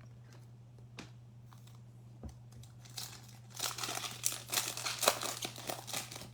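A foil trading-card pack wrapper being torn open and crinkled. A few scattered clicks come first, then the crinkling gets dense and loudest from about three seconds in. A steady hum runs underneath.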